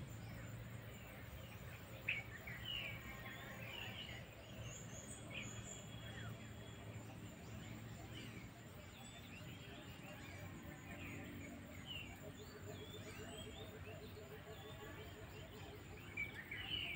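Small birds chirping, many short high calls scattered over a faint steady outdoor background, with one brief sharp click about two seconds in.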